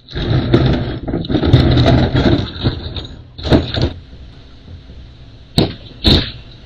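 A truck's engine rumbles loudly for about three seconds, then quietens. A few short knocks follow near the end.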